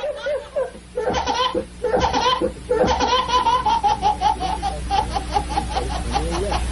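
High-pitched laughter: a few short bursts, then from about three seconds in a long run of quick "ha-ha-ha" pulses, about four or five a second.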